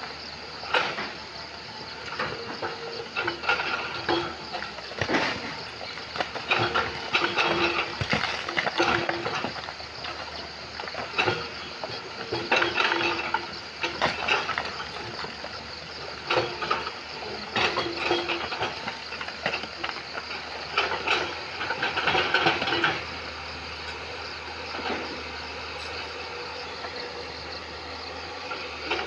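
Excavator working among river stones: the engine runs steadily while the bucket clanks and scrapes against rock in irregular, frequent hits. The clanking thins out near the end, leaving mostly the engine.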